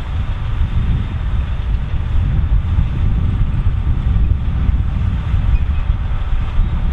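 John Deere 7230R tractor and trailed AVR Spirit 9200 potato harvester working steadily, a constant deep machine rumble with no change in load.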